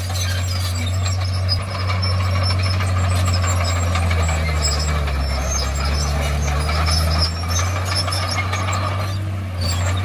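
Komatsu bulldozer's diesel engine running steadily with rattling; about halfway through, the engine pitch sags and then picks back up as it takes on load.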